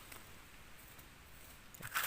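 Faint scratching and rustling of dry leaf litter and soil being picked through by hand, with a short sharp crackle near the end.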